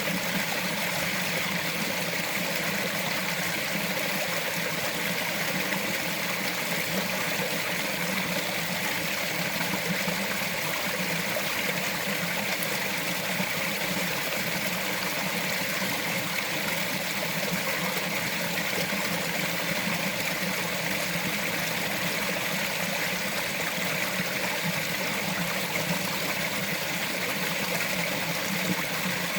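Small mountain forest stream flowing over rocks, a steady babbling and trickling of water that does not change.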